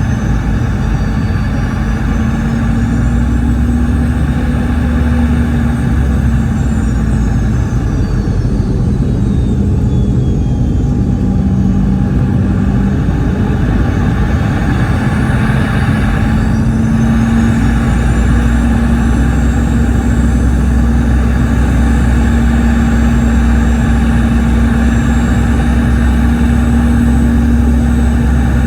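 Cabin noise of a Boeing 717 in flight, heard from a rear window seat close to its tail-mounted Rolls-Royce BR715 turbofans: a steady loud rumble and hiss with a low hum. Thin high-pitched engine whines slide up and down in pitch twice.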